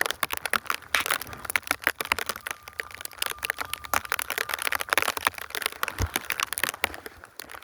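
Snow crunching and crackling right at the phone's microphone: a dense run of small, irregular crackles.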